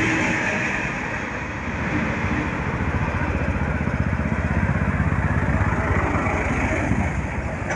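Motorcycle engine running close by with a fast, even low-pitched pulse. The jet noise of a passing airliner fades out in the first second or two.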